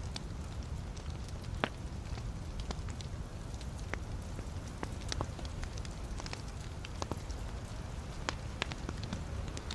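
Wood fire burning in a fireplace: irregular sharp crackles and pops, about one or two a second, over a steady low rumble of the flames.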